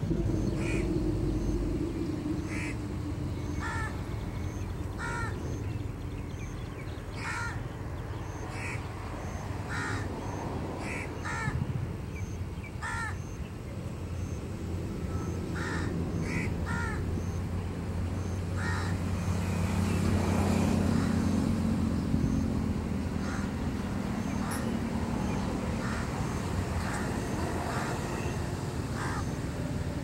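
A bird giving short, harsh, crow-like calls over and over, about one a second for the first half and more sparsely later. Under them run a faint high regular ticking and a steady low rumble that swells a little past the middle.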